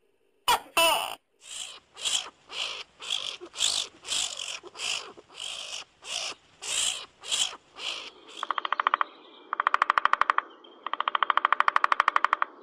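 Two sharp chirps, then a run of short harsh calls about twice a second. From about eight seconds in comes great spotted woodpecker drumming: very fast rolls of strikes on wood, in three bursts of about a second each.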